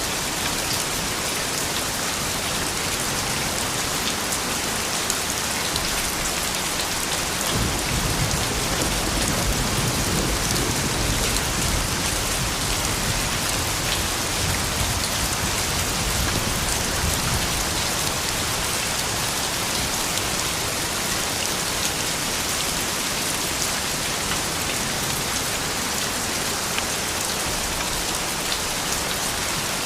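Steady soft rain falling, an even hiss with fine pattering drops. About seven seconds in, a low rumble swells and dies away over the next ten seconds or so.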